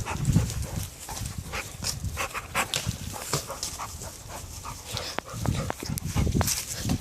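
Dogs panting and moving about, with irregular scuffs and knocks.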